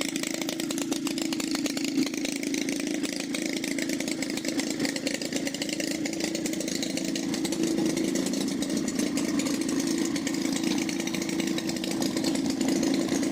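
An engine running steadily at an even speed, with a rapid, regular firing beat.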